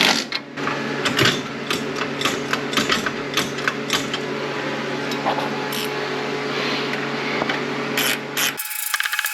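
Hand tools working on the truck's front suspension: irregular ratcheting clicks over a steady hum. About 8.6 seconds in, an abrupt cut to a fast buzzing power tool.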